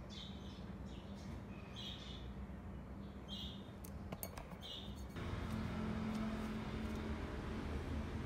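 A small bird chirping, four short chirps about a second and a half apart, over faint background noise. A little after halfway the background changes to a steadier low hum.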